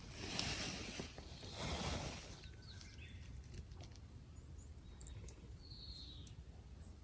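Outdoor ambience: a rushing noise, likely wind, for the first two seconds or so, then a quiet background with a few small ticks and one short falling bird-like chirp about six seconds in.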